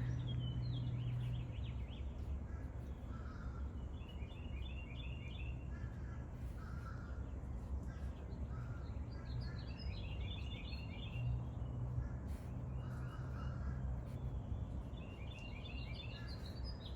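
Songbirds singing in short phrases of quick repeated notes that recur every few seconds, over a steady low hum.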